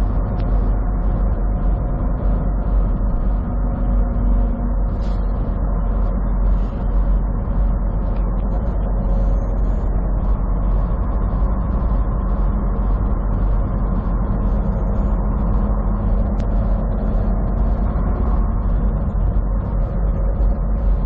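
Semi truck driving, its diesel engine and road noise droning steadily as heard inside the cab, the engine tone shifting a little in pitch now and then.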